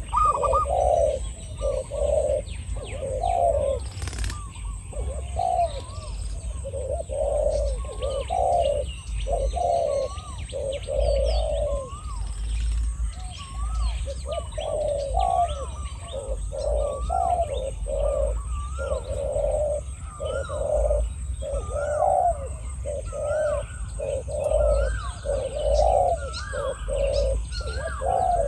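Spotted doves cooing over and over, about one coo phrase a second, with a second, higher-pitched dove's notes in between: a decoy dove and a wild dove calling back and forth.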